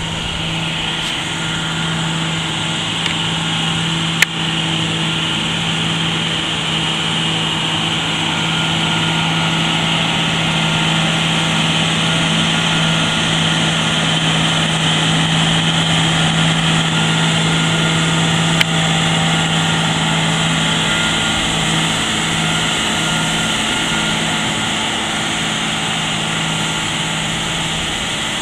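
Farm tractor engine running steadily, one constant drone that swells slightly toward the middle and eases off near the end. Two brief sharp clicks, one a few seconds in and one about two-thirds of the way through.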